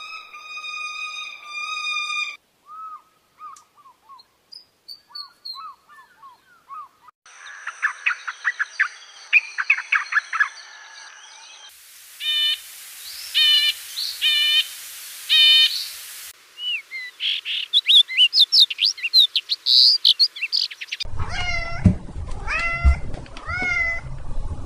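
Small birds chirping and tweeting in a string of short, abruptly cut clips: quick chirps, fast repeated trills and sweeping calls. Just before it, a drawn-out cat meow ends, and near the end come high, falling cries over a low hum.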